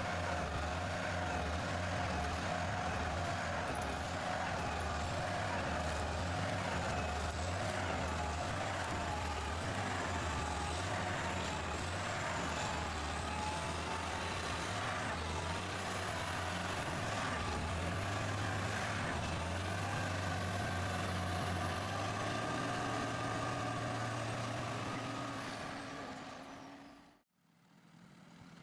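Heavy diesel machinery engine running steadily, with a faint wavering high whine above it; the sound fades out near the end.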